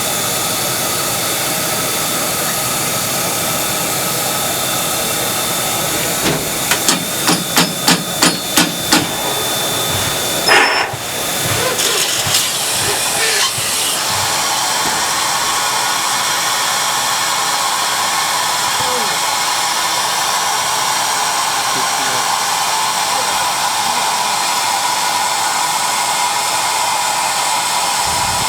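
JNR Class C11 steam locomotive standing with steam hissing loudly and steadily. Roughly a quarter of the way in comes a run of about eight even beats, about two a second, then a brief break, and about halfway through the hiss settles into a steadier tone.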